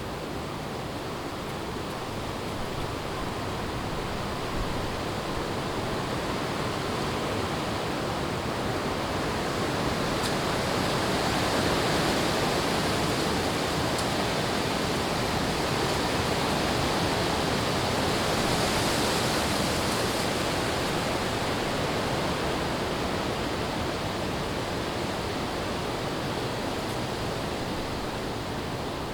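Strong wind gusting through forest trees, a steady rush through the leaves that swells to a peak in the middle and eases off near the end.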